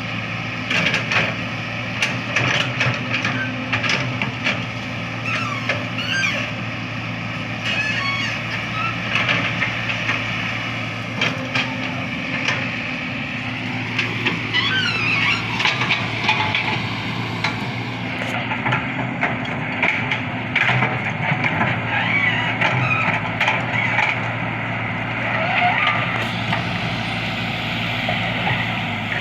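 Excavator's diesel engine running steadily, with repeated knocks and clanks and several high, sliding squeals.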